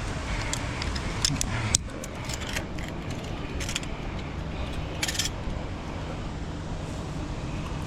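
Scattered metallic clicks and jangles of zipline harness hardware, such as carabiners and clips, being handled and unclipped after the ride, including a longer rattle about five seconds in. A steady rushing background runs underneath.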